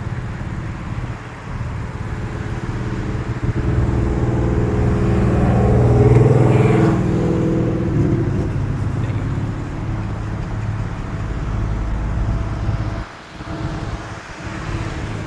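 Road traffic: a motor vehicle passes, its engine and tyres swelling to a peak about six seconds in and fading, over a steady low rumble of traffic.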